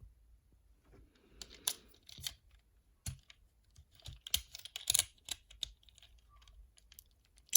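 Hard plastic parts of a Transformers action figure clicking and rattling as they are handled and moved, in irregular sharp clicks. A few louder snaps come about two seconds in and around five seconds.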